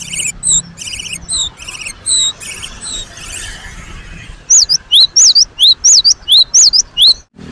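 Cinereous tit (gelatik batu) calling: buzzy chattering notes mixed with short clear whistles. From about halfway come loud, sharp whistled notes repeated three or four times a second, which stop abruptly near the end.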